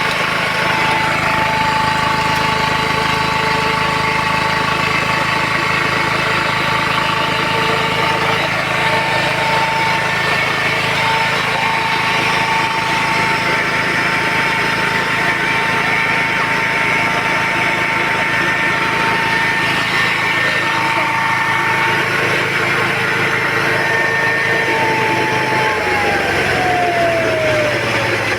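Electric milling machine running with a steady motor whine over a low hum; near the end the whine falls in pitch as the machine winds down.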